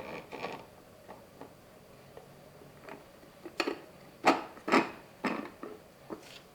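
Handling of a 3D-printed plastic box and the part being glued into it: faint clicks at first, then about five sharper plastic clicks and knocks in the second half.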